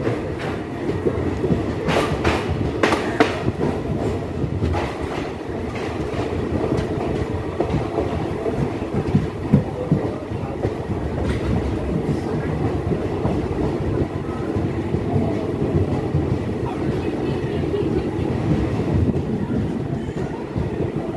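Passenger express train rolling along a station platform, heard from the train itself: a steady rumble of wheels on rail, with a run of sharp clicks a couple of seconds in as the wheels cross rail joints.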